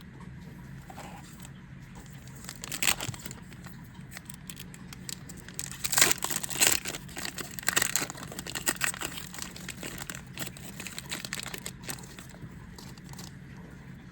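Foil booster pack wrapper being crinkled and torn open: a short burst about three seconds in, the loudest crinkling and tearing from about six to eight seconds in, then lighter crinkles and clicks.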